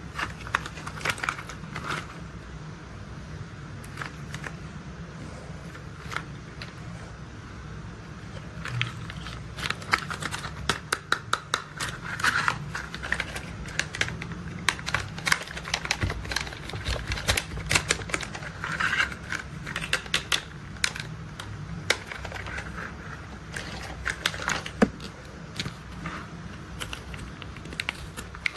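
Hard plastic toy construction vehicles being handled: scattered then rapid clicks and rattles, with short rustling, over a steady low hum.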